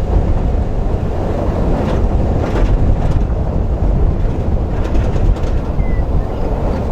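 Dodge pickup truck driving on a dirt track, heard from inside the cab: a steady low rumble of engine and tyres on dirt, with a few light knocks and rattles from bumps.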